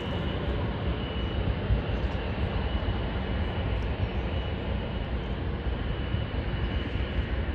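Steady roar and low rumble of a jet airliner's engines during takeoff, with a faint steady high whine.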